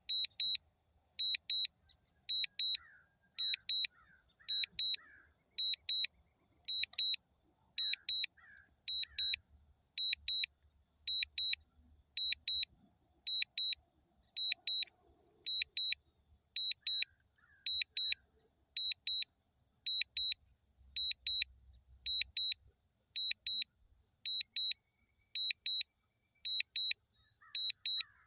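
DJI drone controller's low-battery warning: high-pitched double beeps repeating about once a second, the alert that the drone's battery is critically low.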